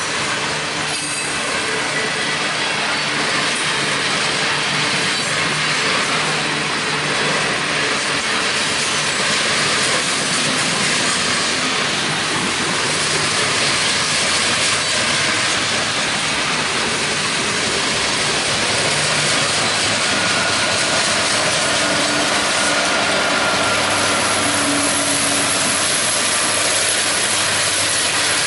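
Freight train cars rolling past at speed: a steady rumble and rattle of steel wheels on the rails. From about three quarters of the way through, the low, steady drone of a diesel locomotive engine within the train joins in.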